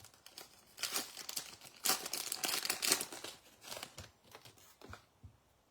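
A baseball card pack's wrapper being torn open and crinkled. The rustling comes in bursts, one about a second in and a longer one from about two to four seconds in, followed by a few light ticks as the cards are handled.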